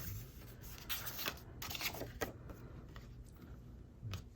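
Quiet handling of paper and craft materials on a work table: faint rustles and a few small scattered clicks and taps.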